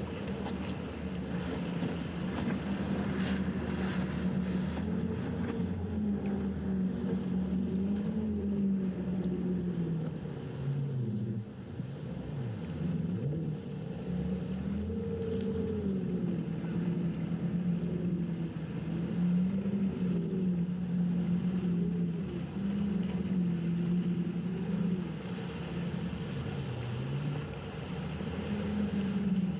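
Outboard engines of a Valhalla boat running through rough inlet water, their pitch wavering up and down as the throttle is worked over the waves. About halfway through the engines drop sharply in pitch and then climb back. Wind rushes on the microphone throughout.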